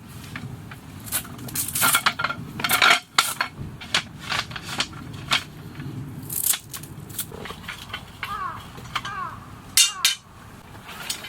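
Metal cookware and utensils clinking, knocking and scraping in irregular strokes, with a few short squeaks later on, over a steady low rushing background.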